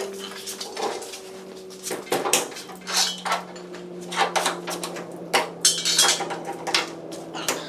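Irregular metallic clinks and clanks of clamps and locking pliers being set on the sheet-metal edges of a car's replacement roof, over a steady low hum.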